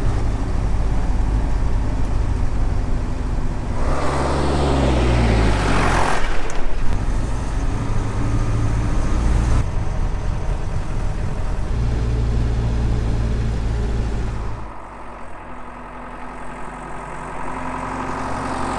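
Mercedes-Benz 608D truck's diesel engine running on the move, its note rising as it revs up about four seconds in. It eases off and goes quieter near the end.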